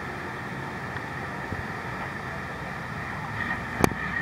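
A boat's engine running steadily under wind and water noise, with one sharp knock near the end.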